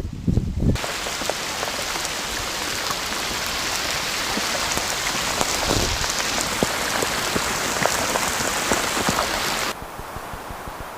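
Steady heavy rain falling, an even hiss with scattered drop ticks, after a brief low rumble at the start. Near the end it cuts off suddenly to a much quieter hiss.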